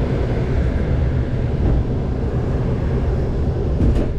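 Steady low rumble of a train in motion: the wheels of a single passenger car hauled by a 2TE10U diesel locomotive running along the rails, with a faint click near the end.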